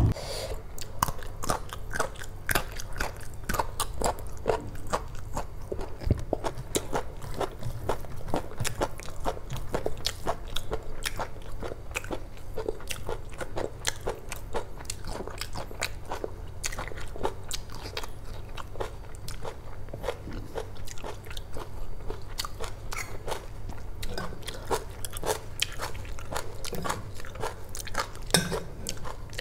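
Close-miked chewing of spicy chicken curry and rice: a dense, uneven run of wet mouth clicks and smacks.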